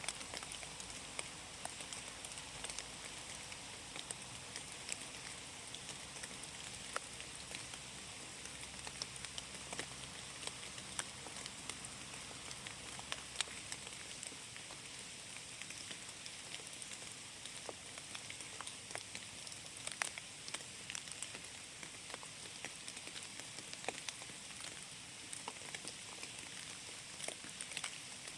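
Steady rain falling on a forest, a constant hiss with many separate drops ticking on leaves and surfaces at irregular intervals.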